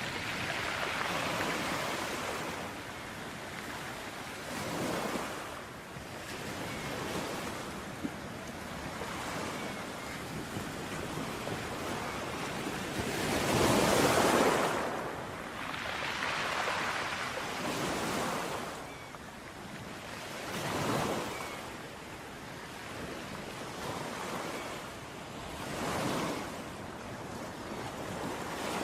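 Ocean waves breaking and washing up on a beach, one surge every few seconds, the loudest about halfway through.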